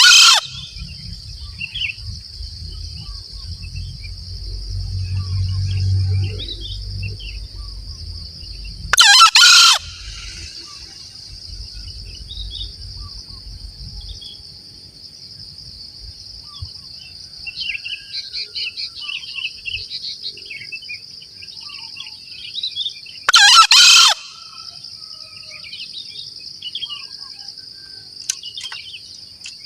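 Green junglefowl crowing: three short, loud crows, at the start, about nine seconds in and about twenty-three seconds in. A steady high insect drone and scattered small bird chirps run underneath.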